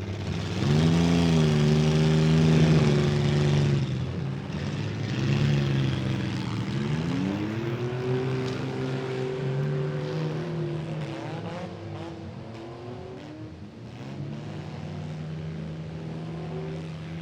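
Demolition derby vehicle engines revving hard. The pitch climbs sharply about a second in and holds high, drops, climbs again around seven seconds and holds, then settles to a lower steady run near the end.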